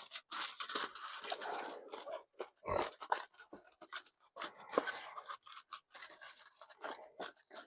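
Aluminium foil crinkling and rustling in irregular crackles as it is wrapped over a pan holding a beef chuck roast, with one dull knock a little under three seconds in.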